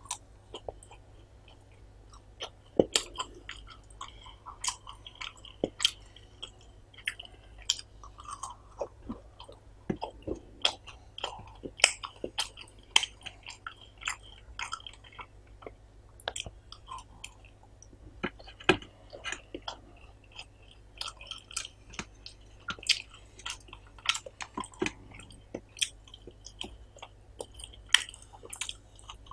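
Close-miked chewing and mouth smacking of a person eating rice with curry, many short, irregular wet clicks.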